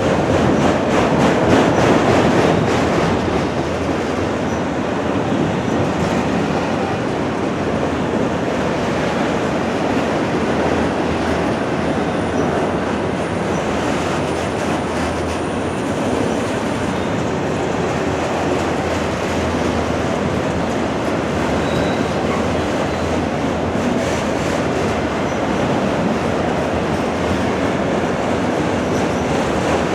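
Freight cars of a long Norfolk Southern train rolling steadily past, wheels clacking over the track, with a faint high wheel squeal for a few seconds near the middle.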